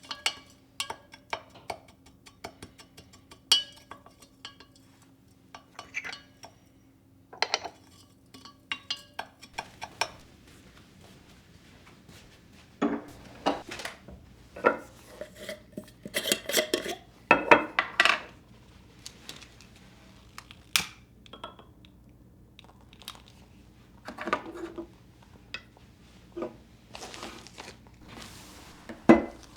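Dishes and cutlery being handled: a long run of separate clinks and knocks, some ringing briefly, busiest about halfway through.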